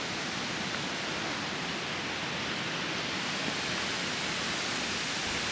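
Steady rushing of water from a small creek waterfall, an even hiss with no breaks.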